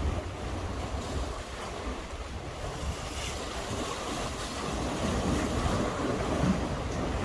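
Sea swell washing against a breakwater, with wind buffeting the microphone. The wash grows louder partway through.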